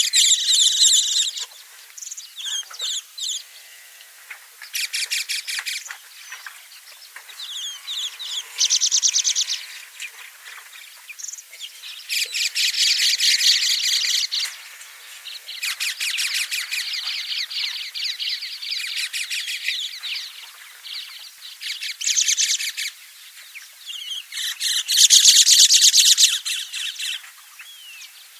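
Lovebirds (Agapornis parrots) giving bouts of high-pitched, rapid chattering calls, each bout one to three seconds long with short pauses between; the loudest bout comes near the end.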